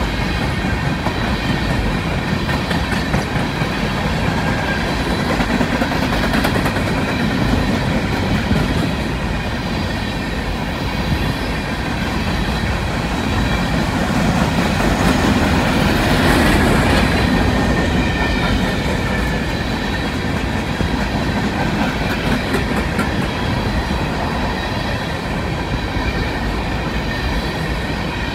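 Loaded coal hopper cars of a freight train rolling past close by: a steady rumble with the wheels clicking over rail joints and a faint high whine. The sound swells briefly about halfway through.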